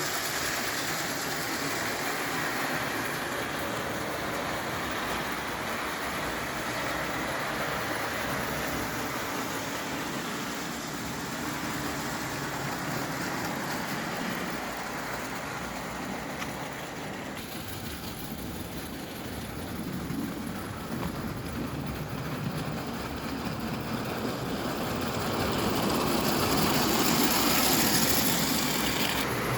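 Märklin 0 gauge live-steam tank engine under steam: a steady rushing noise that swells louder near the end.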